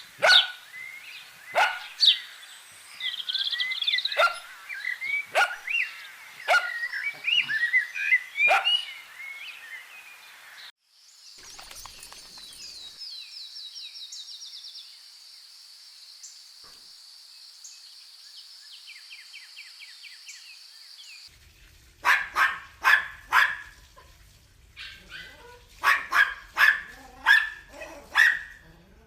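Dogs barking in short repeated bursts, with birds chirping among the first barks. In the middle stretch the barking stops and a high, steady, rapidly ticking trill takes over. Barking returns near the end in two quick runs of four or five barks.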